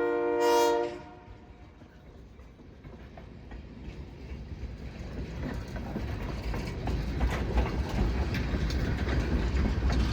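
Locomotive horn sounding a steady chord that cuts off about a second in. Then the freight train's rumble and the clicking of its wheels over the rail joints grow steadily louder as it approaches.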